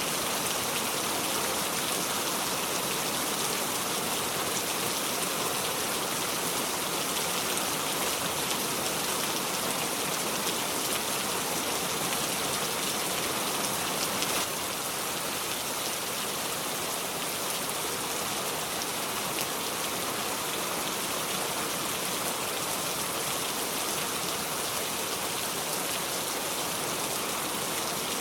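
Steady heavy rain falling, with no thunder, dipping slightly in level about halfway through.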